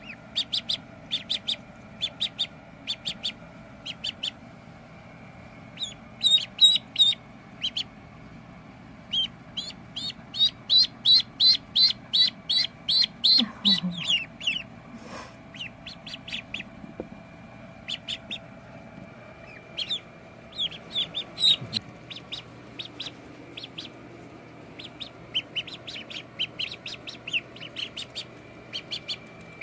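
Ducklings peeping: short, high chirps, scattered at first, then a loud run of about two a second midway before thinning out again.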